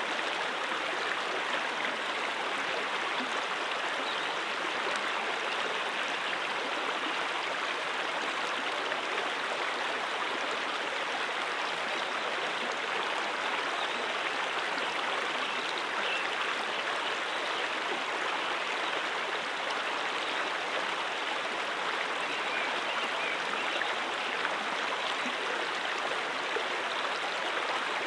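Brook water flowing steadily over rocks: an even rush of running water that does not change.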